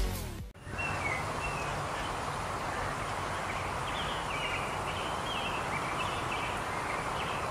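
Outdoor nature ambience: a steady background hiss with small birds chirping again and again in short high calls.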